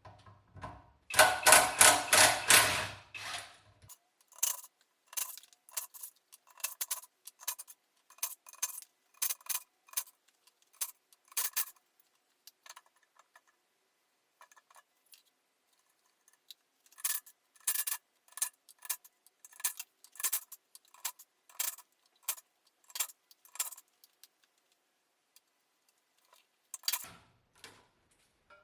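Hand tools on metal: a loud metallic rattle for a couple of seconds, then two runs of sharp metallic clicks about two a second.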